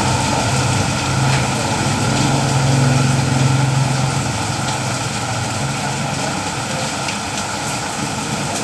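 Steady rain falling, with a motor engine running at a steady pitch underneath that fades out a little past halfway.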